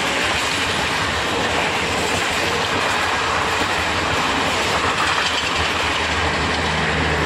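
A through train passing along the station's main line without stopping: a continuous rumble of wheels on the rails with a clickety-clack of the rail joints.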